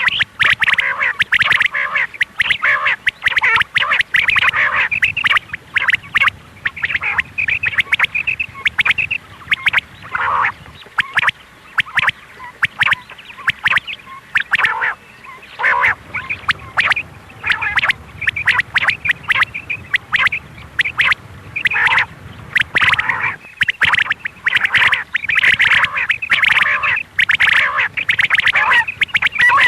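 Quail calling: rapid, harsh, chattering call notes repeated over and over with only brief pauses. A female quail call of the kind played as a lure in quail hunting.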